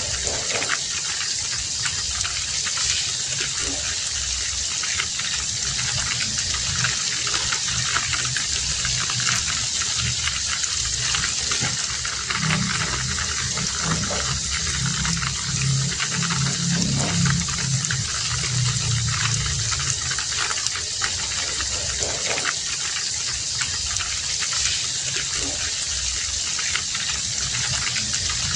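Heavy rain falling steadily. A low hum joins it from about twelve seconds in and fades out about eight seconds later.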